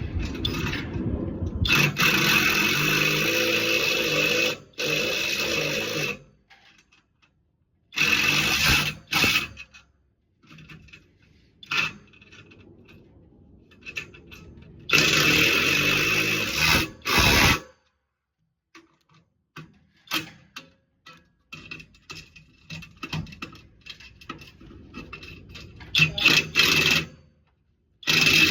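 A handheld power tool running in four bursts of one to four seconds each, tightening the roll cage's mounting nuts and bolts, with quieter clicks and clanks of hardware and tools between the bursts.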